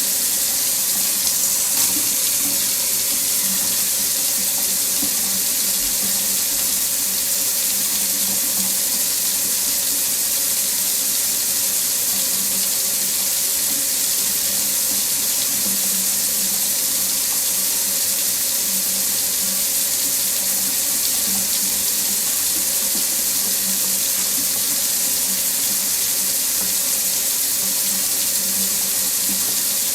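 Water tap running steadily into a sink, an even hiss of falling water with no breaks or changes.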